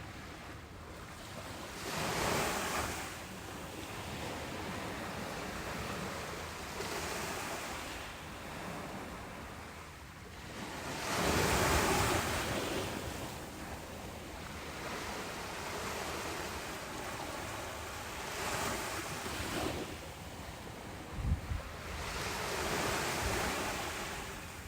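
Ocean waves breaking on a beach, the surf rising and falling in several surges, the loudest about halfway through. A brief low thump comes near the end.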